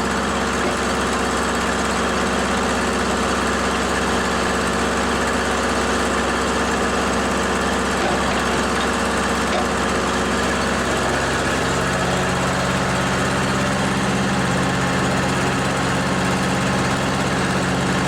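Old farm tractor engine running steadily, its note changing about eleven seconds in.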